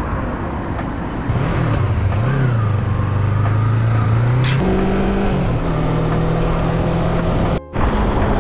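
Yamaha MT-03 motorcycle engine pulling away, its note rising and falling as the rider works the throttle and gears, over wind and road noise; the sound cuts out briefly near the end.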